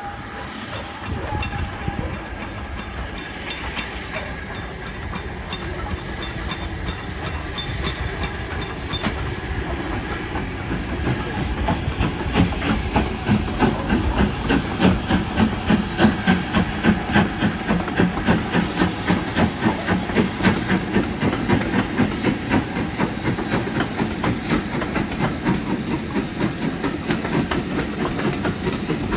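Steam locomotive working, with hissing steam and, from about twelve seconds in, a fast, even rhythmic beat that grows louder.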